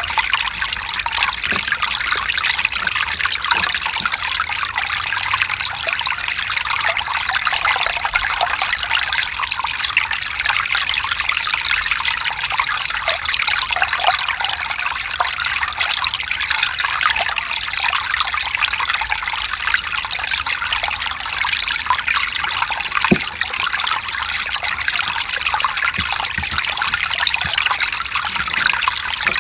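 Mountain stream flowing and trickling over rocks in a steady, unbroken rush, with a few faint splashes.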